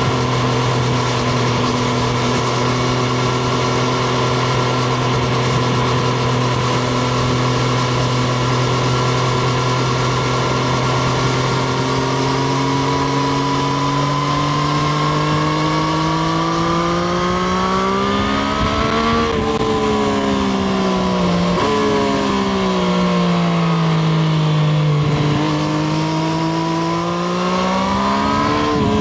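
Triumph Street Triple RS's 765 cc inline three-cylinder engine. It runs at a steady pitch at first, then revs up under acceleration a little past halfway, drops back, and climbs again near the end.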